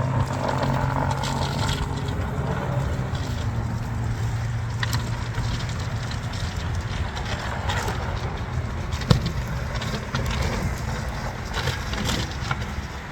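A road vehicle's engine running steadily with wind and road noise on the microphone, and a sharp click about nine seconds in.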